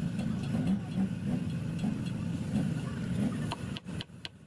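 An engine running at a low, uneven idle, which drops away about three and a half seconds in. A run of sharp light clicks follows, a few per second.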